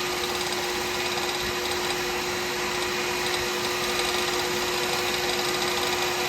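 Wood lathe running steadily, a constant hum with one steady tone, while a resin pen blank spinning on it is wet sanded with 12,000-grit abrasive.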